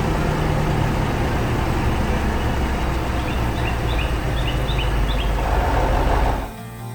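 Heavy construction vehicle engine running with a steady low rumble, which cuts off abruptly about six and a half seconds in.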